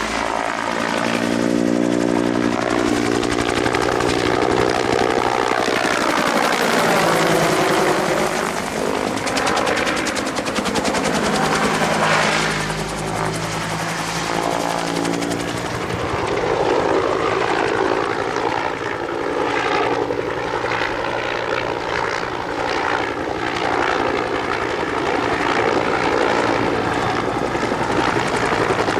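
Military helicopter's two-bladed main rotor and turbine engine in a low manoeuvring flight display. The rotor sound sweeps down and back up in pitch as the aircraft passes and turns, swelling and fading in loudness.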